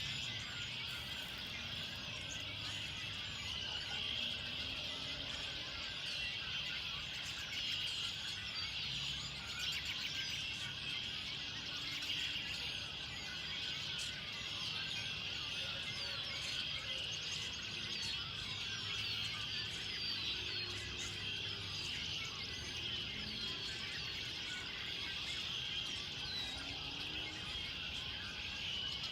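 Birds chirping and singing, many short quick notes throughout, over a steady high-pitched drone.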